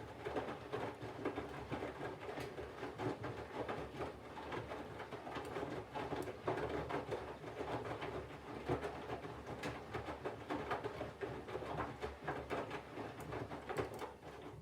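Candy GVF4 front-loading washing machine drum turning slowly during the water-heating phase of a 40° colours wash, with laundry and water sloshing and pattering inside and irregular clicks. It stops abruptly at the end as the drum pauses.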